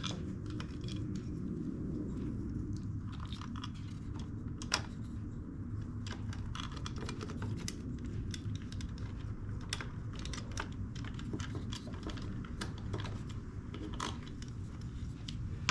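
Irregular light clicks and taps of small parts and tools being handled, over a steady low hum.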